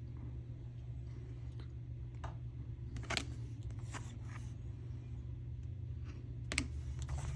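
Oracle cards being handled and flipped through: scattered light clicks and taps of card stock over a steady low hum.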